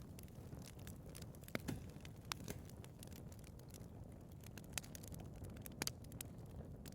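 Wood fire in a fireplace, burning with a low steady rush and irregular crackles and pops, the sharpest about one and a half seconds in and again near six seconds.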